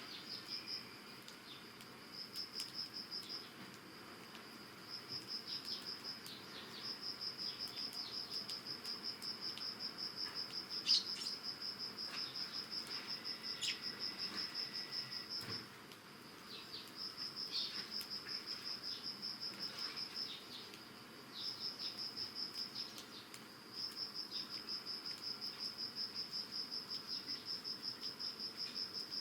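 Autumn insects singing a high, evenly pulsed trill in long runs broken by short pauses. A few short chirps from Eurasian tree sparrows cut in, the loudest about eleven seconds in.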